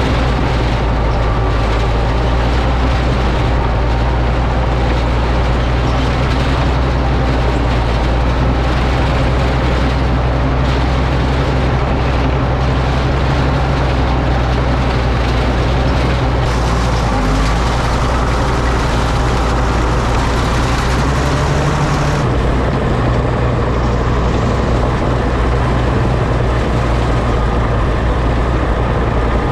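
Oliver OC-6 crawler tractor's engine running steadily, its note shifting briefly about 17 seconds in and again about 22 seconds in.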